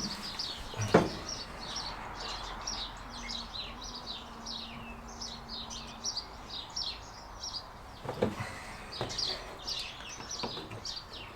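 A small songbird singing a rapid series of short, high, downward-sweeping chirps. A few clicks of handling come about a second in and again near the end.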